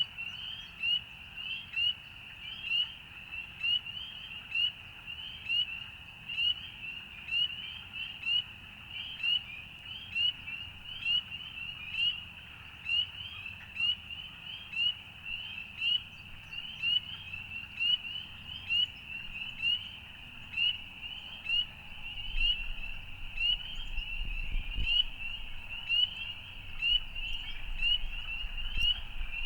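Chorus of many frogs calling together, a dense mass of short, high, rising peeps with the loudest calls coming a little more than once a second. A low rumble joins in during the last several seconds.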